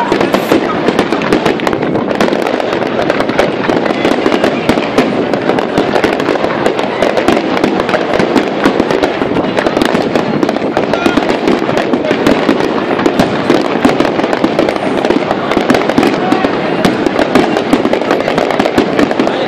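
Aerial fireworks display firing a dense barrage: a rapid, unbroken stream of overlapping bangs and crackles from many shells bursting at once.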